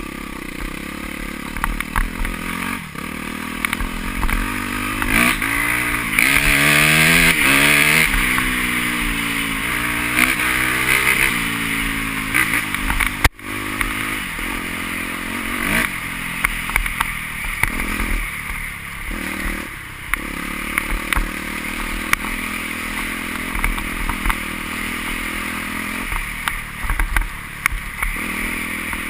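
Motocross motorcycle engines revving as bikes ride past, the pitch rising and falling and loudest around five to eleven seconds in. The sound breaks off abruptly about thirteen seconds in, then more engines run on at a steadier level.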